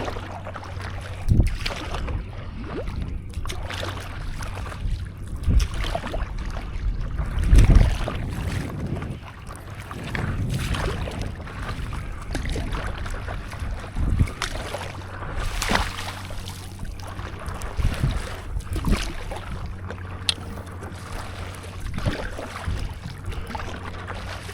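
Stand-up paddleboard paddle strokes splashing through seawater every second or two, over wind buffeting the microphone and low wave wash.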